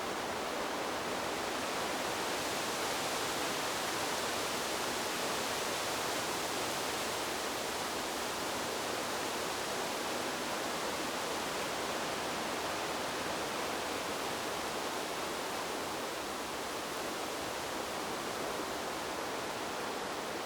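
Wind blowing through a bamboo grove, a steady, even rush with no gusts or breaks.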